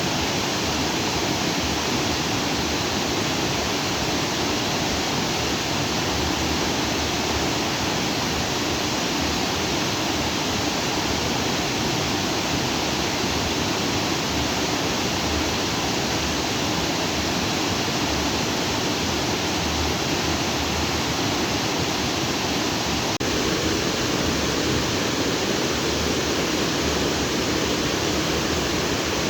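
Water of a lagoon's outflow stream rushing freely over rocks, a steady, even rush with no let-up.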